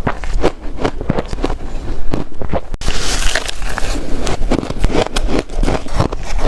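Close-up crunching and chewing of ice, a rapid run of crisp bites and crunches, changing abruptly in character about three seconds in.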